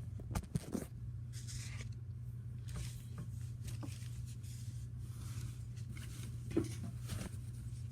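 Soft handling noises, scattered light clicks and rustles of objects being moved about, over a steady low hum.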